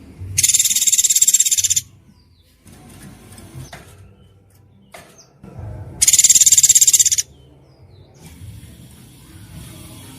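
Songbird 'tembakan' burst: a shrill, rapidly pulsed buzzing trill about a second and a half long, given twice, with faint softer chirps in between.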